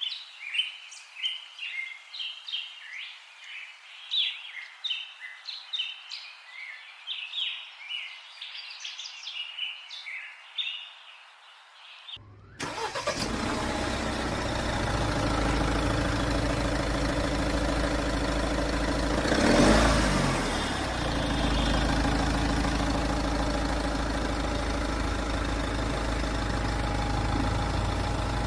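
Birds chirping, a busy chorus of short high calls, for about the first twelve seconds. Then an engine starts suddenly and runs steadily, swelling briefly once about two-thirds of the way through.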